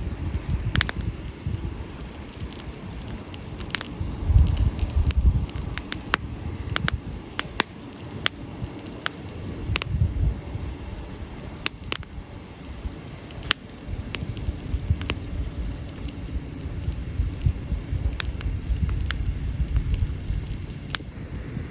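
Wood campfire burning, crackling with irregular sharp pops and snaps over a low rumble that swells and fades several times.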